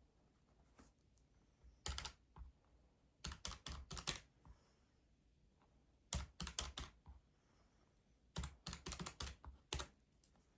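Keys tapped in four short bursts of quick clicks, with quiet gaps between them, like typing or entering figures.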